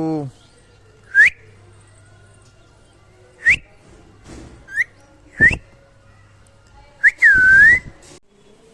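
A series of short, clear whistles, each rising in pitch: five brief upward whistles a second or two apart, then a longer whistle that dips and rises again near the end.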